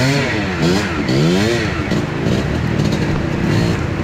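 Trail motorcycle engine revved up and down about three times in quick succession, then held at a steadier, lower speed for the second half.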